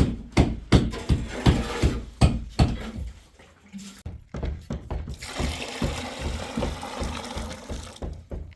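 Sharp knocks, about three a second, stop about three seconds in. About five seconds in, a steady rush of running or pouring water starts and lasts about three seconds.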